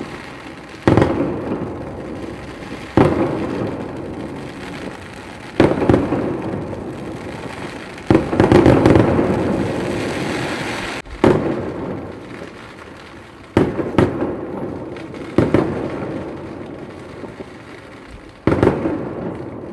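Fireworks display: aerial shells bursting with loud bangs every two to three seconds, each fading away in a long rolling echo. About eight seconds in, one burst is followed by a few seconds of dense crackling.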